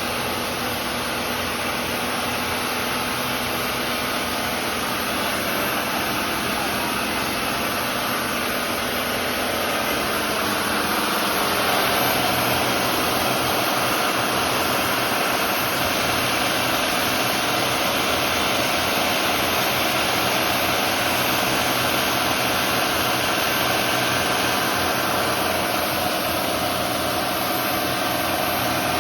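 Bayliner 4788's twin inboard diesel engines running steadily under way, a little louder with a shift in tone about eleven seconds in.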